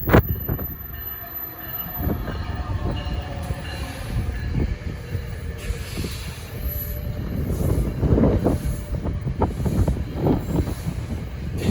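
Train passing on the rails: wheels rumbling and clattering, getting louder in the second half, with a sharp knock right at the start.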